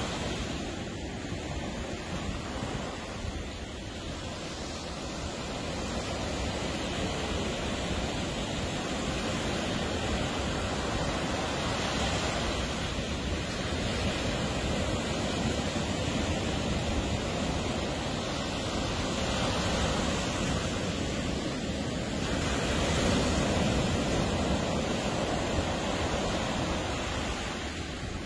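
Ocean surf washing onto a beach: a steady rushing hiss that swells and eases slowly, loudest a few seconds before the end.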